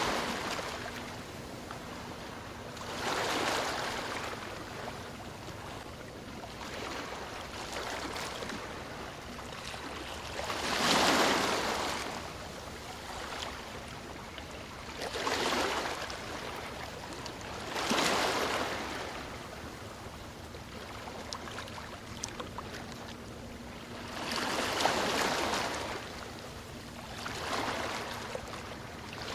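Ocean waves washing ashore, each one a rushing swell of surf that rises and fades every few seconds. About six waves come in, the loudest about eleven seconds in, with a softer steady wash between them.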